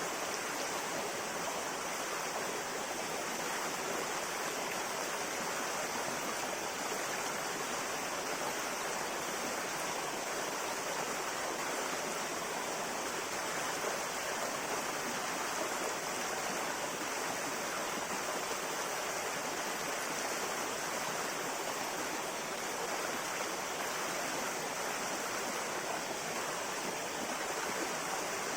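River water flowing steadily over stones, a continuous even rush with no breaks or changes.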